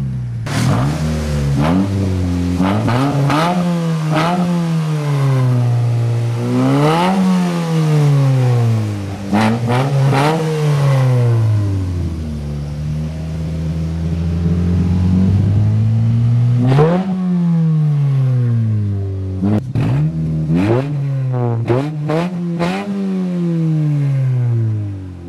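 Ford Focus with a Steelhaus aftermarket exhaust being revved again and again, its pitch rising sharply and falling back each time, with a steadier hold in the middle. Short sharp cracks come at several of the rev peaks.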